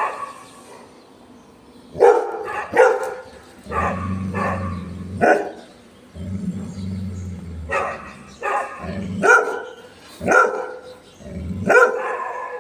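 Golden retriever barking repeatedly, about ten loud barks a second or so apart: alert barking at cows grazing in view. A low steady hum sounds in several stretches between the barks.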